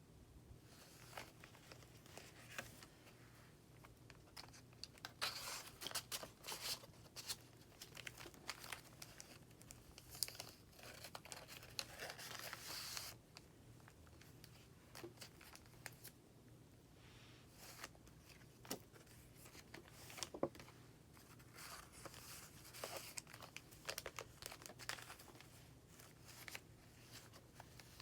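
Paper pages of a handmade junk journal being turned and handled, rustling and crinkling in several bursts with quieter stretches between.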